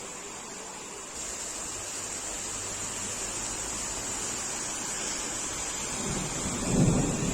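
Steady hiss of heavy rain in a thunderstorm, with a low rumble of thunder swelling up near the end.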